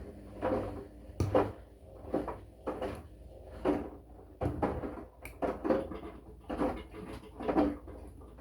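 Washing machine mid-wash, its drum turning and the laundry inside tumbling: a run of dull thuds and sloshes about once every half second to a second, over a faint steady motor hum.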